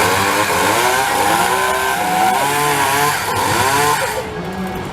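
Petrol chainsaw engine revving up and down several times, then easing off near the end. It sounds a little bit unhappy, and it is running with no bar oil in its chain-oil compartment.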